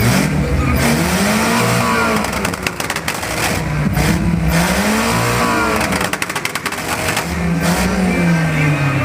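A naturally aspirated Chevrolet Chevette's four-cylinder engine revved hard, its pitch climbing and falling about three times over a constant noisy background.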